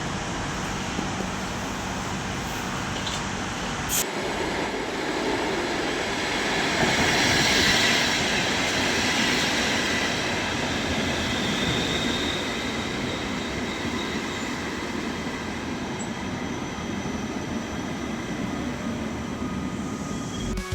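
A train running through the station: a steady rumble of wheels on rail that swells about seven seconds in and then eases, with a sharp click about four seconds in.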